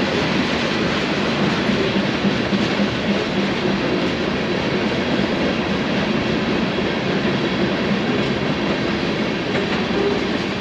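Freight train of covered hopper cars rolling past: steady noise of steel wheels running on the rails.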